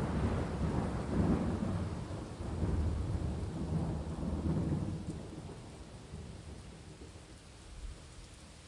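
Thunder rumbling low and rolling in several swells, then dying away over the last few seconds, over steady rain.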